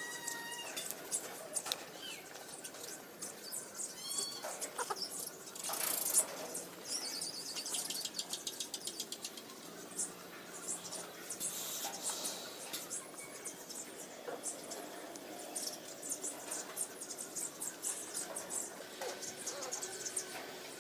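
Puppies whimpering and squeaking in short, high, wavering cries, amid many small clicks and rustles.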